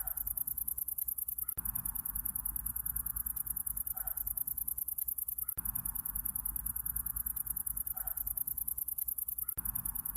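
Looped summer-night ambience: night insects trilling in a high, fast, steady pulse over a low rumble, the whole pattern repeating about every four seconds.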